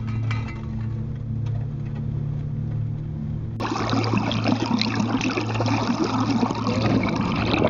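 Water splashing and rushing, becoming much louder about halfway through, over background music with steady low held notes.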